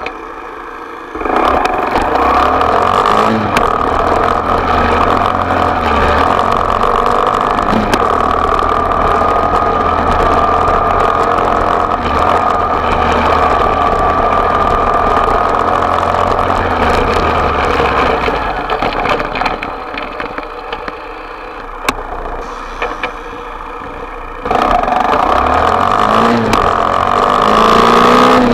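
Small off-road motorcycle engine running hard at high revs, steady for most of the time, easing off for a few seconds, then coming back on with rising revs near the end.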